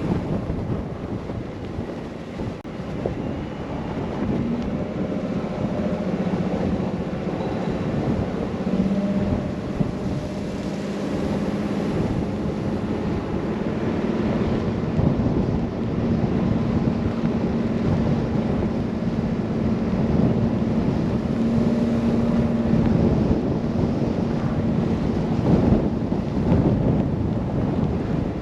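Car driving through a snow blizzard: wind rushing and buffeting over the microphone, with a steady low hum from the car running underneath.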